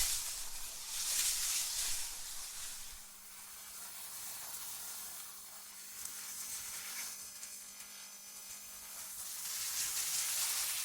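Wind ambience: a high, airy hiss that swells in gusts about a second in and again near the end, easing off in between, over a faint steady low hum.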